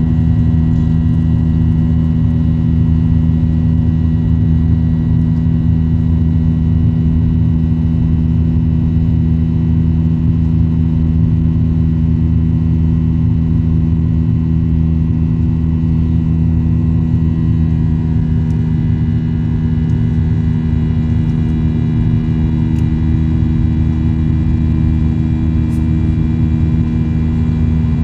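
Cabin noise of a Boeing 737-800 in flight: its CFM56-7B turbofan engines and the airflow make a loud, steady drone with several constant hum tones. About two-thirds of the way through, the level dips slightly and some of the tones shift.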